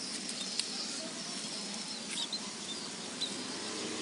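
A few faint, short, high chirps from sparrows chilled and dying on the ground, over a steady background hiss, with a single click early on.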